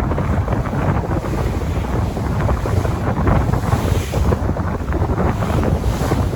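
Sea waves washing and breaking, with wind buffeting the microphone: a loud, continuous rush that swells and eases.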